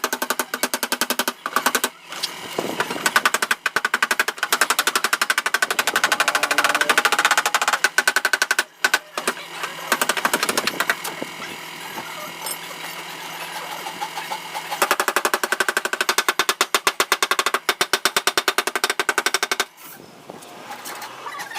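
Rapid, evenly repeating mechanical rattling over steady tones, stopping briefly about 2, 8 and 20 seconds in.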